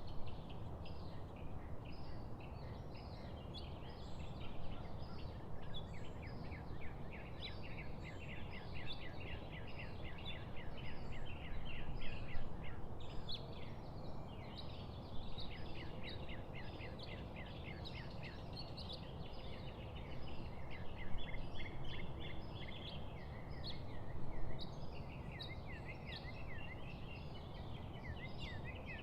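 Many small birds chirping and singing over one another in quick repeated notes and trills, over a steady low rushing background noise.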